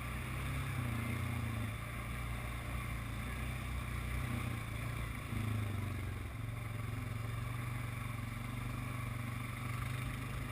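ATV engine running steadily while riding along a trail, its drone changing pitch slightly a little past halfway, with a steady rushing noise on top.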